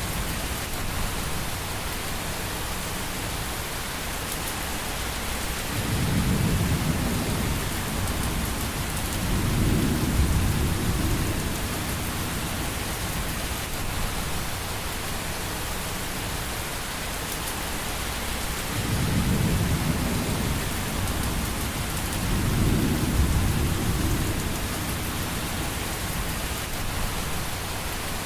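Steady rain with thunder: four low rumbles, in two pairs, each swelling and fading over a couple of seconds.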